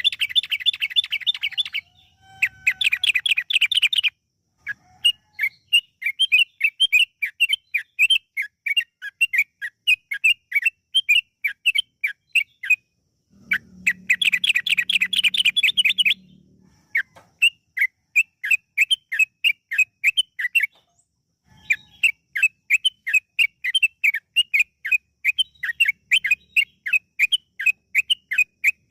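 Yellow-vented bulbul (trucukan) singing a lure song: three fast rolling trills, one near the start, one just after, and one about halfway, between long runs of quick falling notes, several a second.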